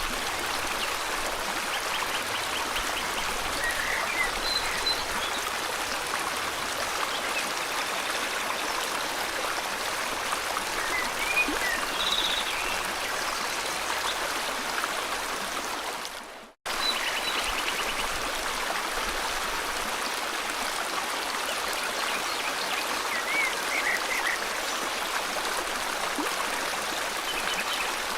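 Steady rush of flowing river water, with a few short bird chirps and a couple of quick trills over it. The sound dips out briefly about two-thirds of the way through and cuts straight back in.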